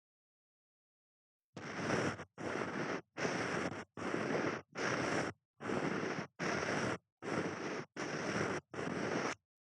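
Ear-cleaning strokes against an ear microphone: about ten rhythmic rubbing and scraping passes, each about half a second long, starting after a second and a half of silence.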